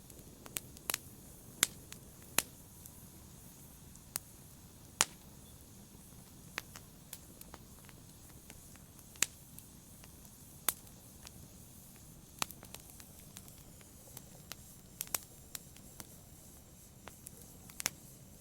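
Wood fire crackling in a fireplace: scattered sharp pops and snaps, about one every second or so at uneven intervals, over a low steady hiss.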